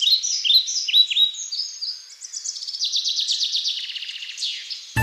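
Birdsong: a quick series of high, down-slurred chirps, turning into a fast trill about three seconds in and ending with one falling whistle.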